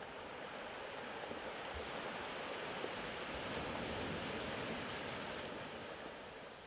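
Soft ocean waves washing in, a gentle rushing that swells to a peak in the middle and slowly recedes.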